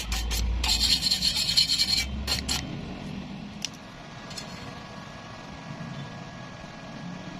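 Stick (arc) welding arc crackling on square iron steel, with a low hum underneath; it breaks off briefly about two seconds in and stops at around two and a half seconds, leaving a quieter background with one faint click.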